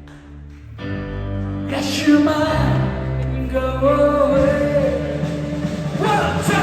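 Live band music with singing. It opens quietly, held notes swell in about a second in, and the full band comes in with vocals shortly after.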